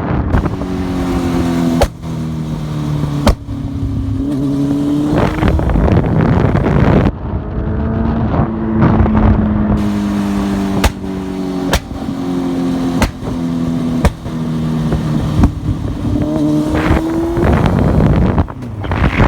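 Honda CBR600F2 inline-four motorcycle engine in a converted quad bike, run hard through a string of gear changes. The engine note climbs, cuts off sharply at each shift and climbs again every second or two.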